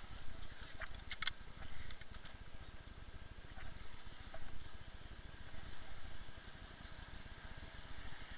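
Umpire motorboat's engine running steadily under a low, choppy rumble, with a few short clicks or knocks about a second in.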